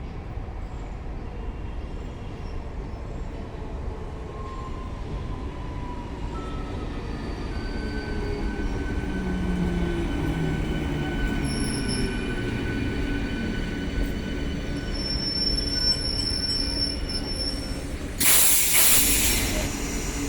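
Passenger train running through the station, its wheels squealing in thin high tones over a steady rumble. A loud hiss lasts about two seconds near the end.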